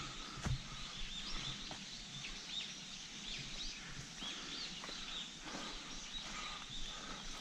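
Small birds giving repeated short, high chirps, with a few soft rustles and steps in leafy undergrowth.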